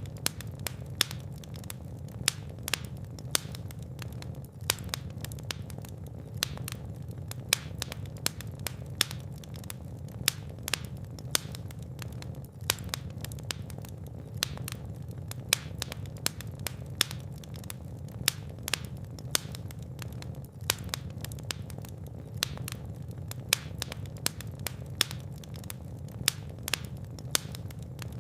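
Fire in a fireplace crackling and popping, with sharp irregular snaps several times a second over a steady low rumble of the flames.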